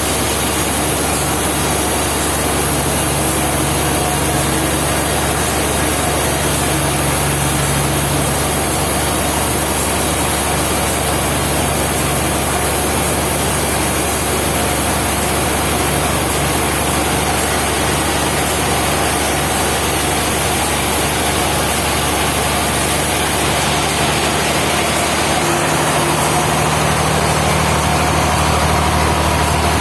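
Sawmill machinery running steadily: a loud, continuous mechanical noise over a low engine hum that shifts slightly near the end.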